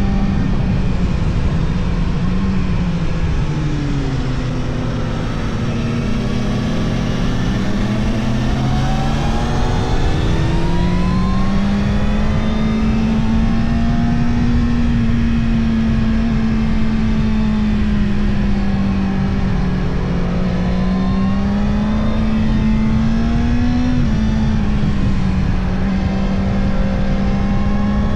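Yamaha R1 sport bike's inline-four engine under way, heard from the rider's position with wind rush. It holds a steady cruising note, eases off to a lower pitch a few seconds in, then pulls back up and runs steadily again, with a small rise and fall near the end.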